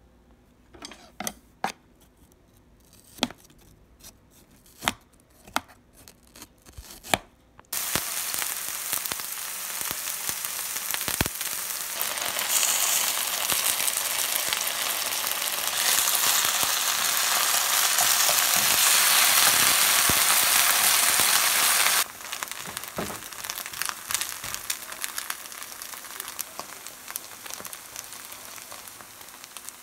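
Several sharp clicks and knocks over the first seven seconds or so. Then reheated rice and chopped dakgalbi start frying in a nonstick pan with a loud, steady sizzle, which drops to a quieter sizzle with small clicks about twenty-two seconds in.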